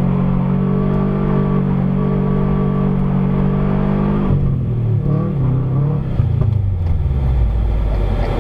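2008 Subaru WRX STi's turbocharged flat-four engine held at a steady pitch while the car spins a donut in snow, heard from inside the cabin. About four seconds in the revs drop and waver, then fall lower near the end.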